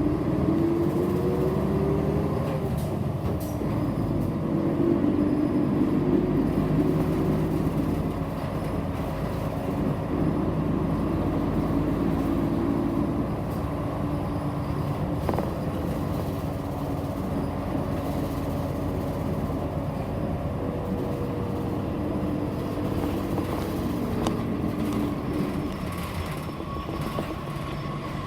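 Inside a city bus on the move: the engine and drivetrain whine climbs in pitch as the bus accelerates during the first two seconds, then holds steady over a constant road rumble. The whine fades out a couple of seconds before the end.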